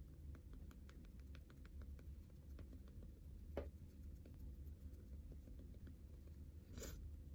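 Faint handling sounds of makeup being applied: many small clicks and soft taps, one sharper tap about three and a half seconds in, and a brief brushy rustle near the end, over a low steady hum.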